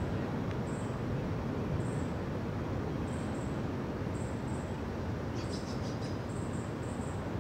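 Steady low rumble of a freight train rolling by. High birdlike chirps repeat about once a second, with a quick run of chirps about five and a half seconds in.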